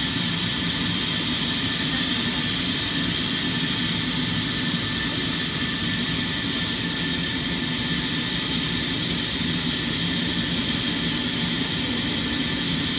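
Sawmill machinery running with a steady, loud mechanical drone and hiss that holds without change.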